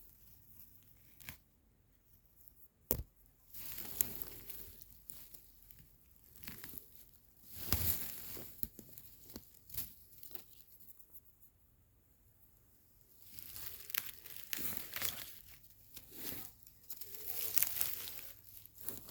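Irregular bursts of rustling and tearing, with a sharp snap a little before three seconds in and a quieter stretch near the middle.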